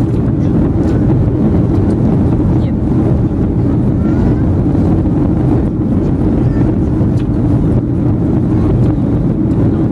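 Boeing 737-500 cabin noise: the steady, loud low rumble of the CFM56-3 engines and the airflow past the fuselage, heard from a seat near the front of the cabin.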